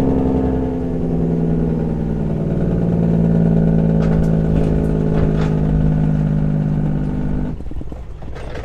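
Truck engine running at a steady, even pitch while driving; the sound cuts off suddenly near the end.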